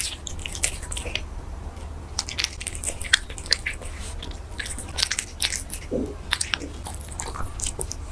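A cat chewing and biting crunchy food at close range: quick, irregular crunches.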